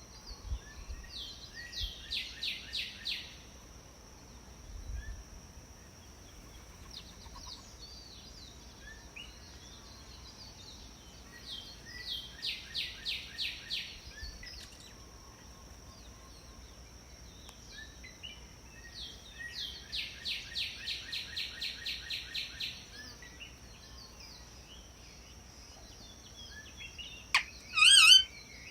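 Parrot calling: three bouts of fast repeated high chattering notes, then a loud squawk that glides up and down near the end, over a faint steady high whine.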